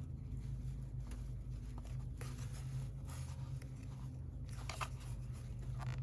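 Faint plastic clicks and scraping as hands work the ignition coil packs' connector clips loose, over a steady low hum.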